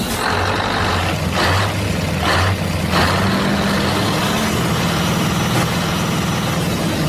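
A heavy engine running with a steady low hum, broken by several short bursts of hiss.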